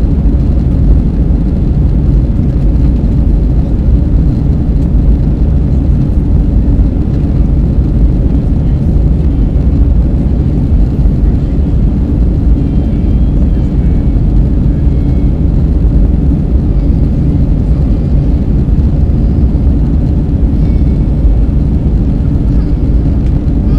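Steady, loud low roar of engine and airflow noise inside the cabin of an Airbus A320 airliner in flight after takeoff.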